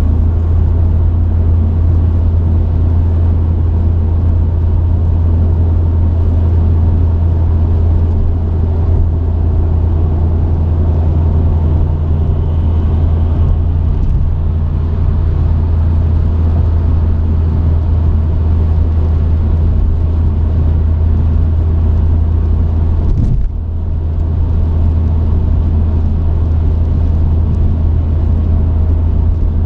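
Truck running on the road, a steady low engine drone with road noise, heard from the cab; the drone briefly drops out about three-quarters of the way through, then returns.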